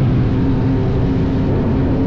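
Motorcycle engine running while riding, holding steady revs with its tone shifting upward about halfway through.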